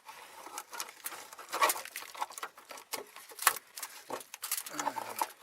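Irregular clicks and knocks of a tool prying at the fuel lines and their clips under the car, with two sharper knocks about a second and a half and three and a half seconds in.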